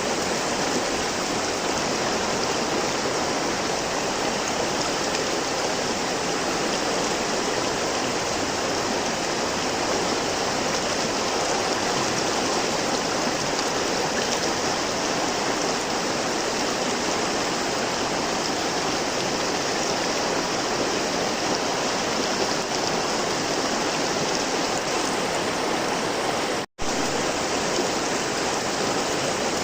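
River water flowing in a steady, even rush. Near the end the sound cuts out for a split second and comes straight back.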